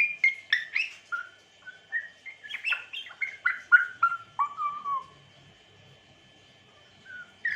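African grey parrot whistling a quick run of short chirped notes, most of them sliding down in pitch, for about five seconds, then a brief note or two near the end.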